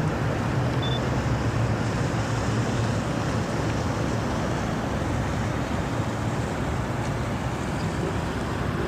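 Steady wind noise on the microphone with a low engine hum that fades about halfway through.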